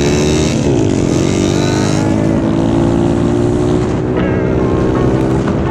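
Small pit bike engine running hard under a rider. Its pitch dips and climbs again about half a second in, then holds steady at high revs.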